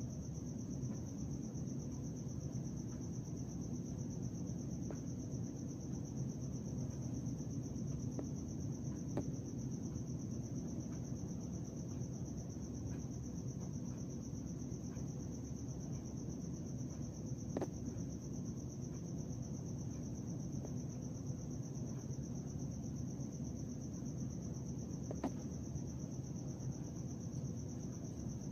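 Night insects trilling nonstop on one high pitch, over a steady low rumble of background noise, with a few faint ticks.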